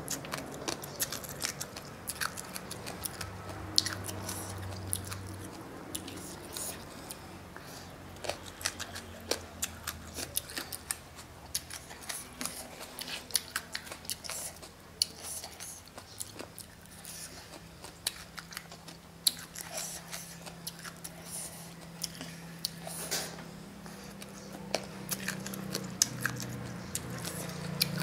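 Close-up chewing and crunching of spicy papaya salad mixed with noodles, with many short sharp crunches and clicks scattered throughout.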